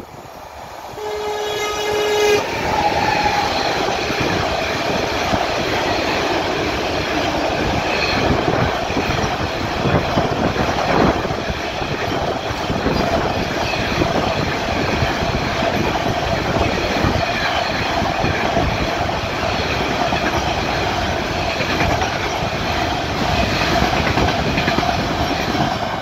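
An electric locomotive gives one short horn blast about a second in, then a long container freight train passes close by, the wagons' wheels running and clattering steadily over the track.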